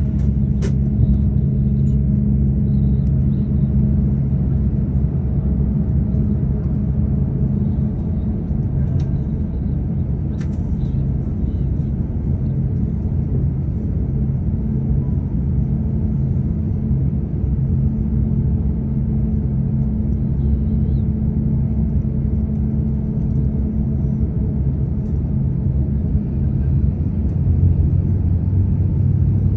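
Cabin noise inside an Airbus A350-1000 on the ground: a steady low rumble with a low hum from the aircraft's engines and air systems, holding an even level with no spool-up.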